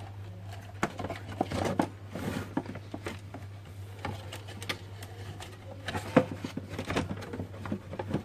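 Irregular light clicks and small knocks of parts being handled while working on an opened egg incubator, over a steady low hum.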